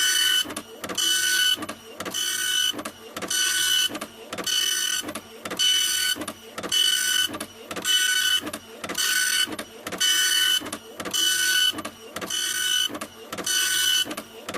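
Printer running, with a whirring, whining burst repeating evenly a little more often than once a second, each burst followed by a short lull.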